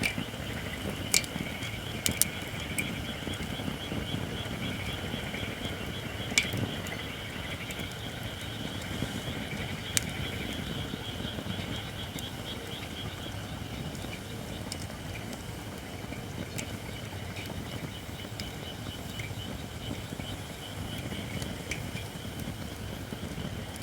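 Campfire of Japanese white oak logs that are not yet fully dry, burning steadily with sharp crackles and pops, the loudest about a second, two seconds, six seconds and ten seconds in. Under them runs a steady high-pitched, fast-pulsing sound and a low rumble.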